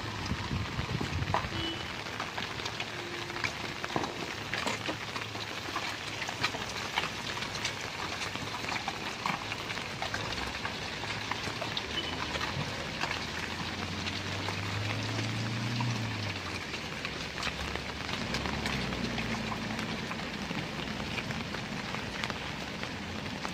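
Steady rain falling, with scattered raindrop ticks throughout. A low hum swells briefly about two-thirds of the way through.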